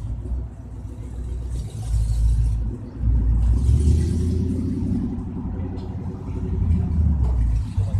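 Car engine running with a deep rumble, swelling louder a few times: about two seconds in, again from about three to five seconds, and near the end.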